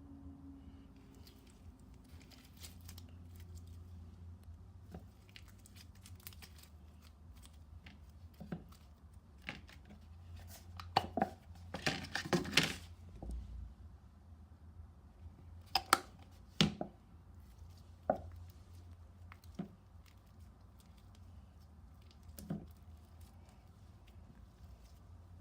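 Scattered clicks, taps and crinkles of things being handled at close range, busiest about halfway through, over a low hum.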